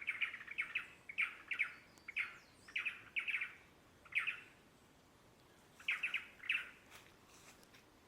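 Unseen songbirds calling agitatedly: clusters of quick, high chirping notes repeated every second or so, a pause in the middle, then two more bursts.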